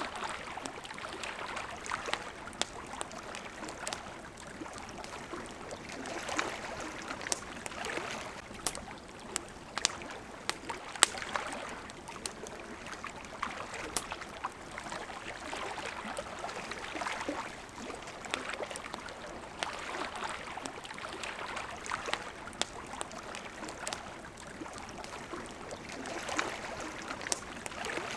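Water lapping and washing in slow swells every few seconds, with a campfire crackling over it in scattered sharp pops, one louder pop about eleven seconds in.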